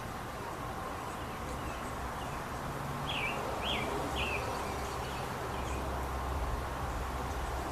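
Outdoor backyard ambience with a songbird giving three short, falling chirps about three seconds in, and fainter chirps around them. A low rumble in the background grows louder in the second half.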